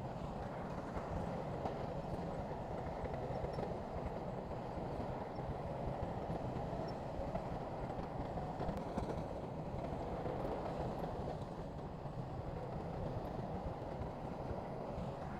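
Heavy diesel earthmoving machinery running steadily, a continuous low engine drone with rough clatter.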